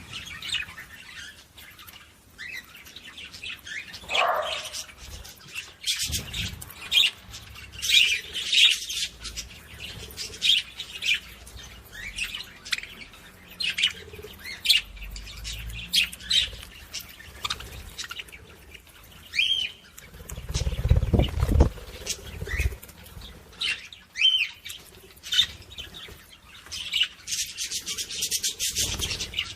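Budgerigars chattering, a steady stream of short high chirps and warbles, with a low rumbling thud about two-thirds of the way through.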